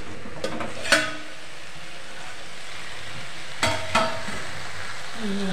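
Potatoes and fenugreek greens sizzling steadily in a steel kadhai on a low flame. A steel lid clinks sharply against the rim as it is lifted off, about half a second and one second in, then twice more near four seconds.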